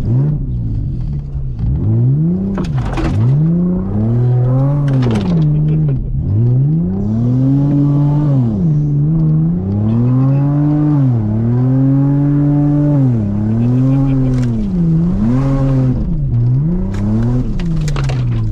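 1999 Toyota Camry's engine, heard from inside the cabin, revving up and down again and again, its pitch climbing, holding and dropping about a dozen times as the car is driven hard along a rough sandy track. A few sharp knocks come through over the engine.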